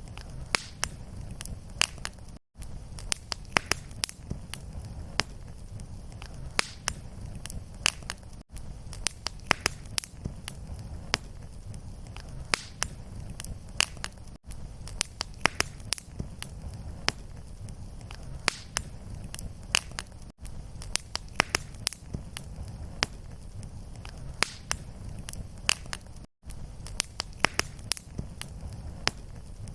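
Fireplace fire crackling, with many sharp pops over a low steady rumble. The sound cuts out for a split second about every six seconds, where a short fire recording is looped.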